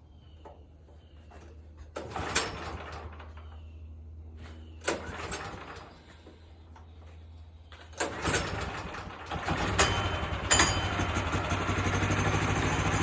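Sawmill engine being cranked to start: two short tries about two and five seconds in die away, and on a third try, about eight seconds in, it catches and settles into steady running. It usually starts on the first try.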